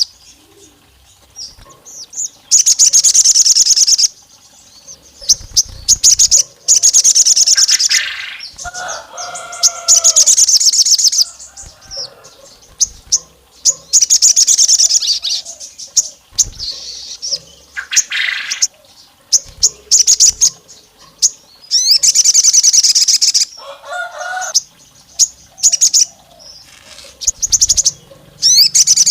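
Sogon bird singing hard: bursts of rapid, high-pitched trilled notes lasting a second or two each, repeated every few seconds with short pauses between, and a few lower notes in some of the gaps.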